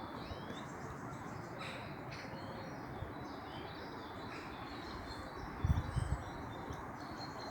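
Birds chirping outdoors: many short chirps and quick rising whistles, over a steady background hiss of outdoor noise. A couple of low bumps come about two thirds of the way in.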